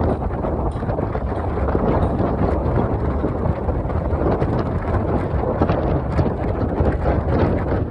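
Steady wind rushing over the microphone of a moving bike, mixed with road and vehicle noise.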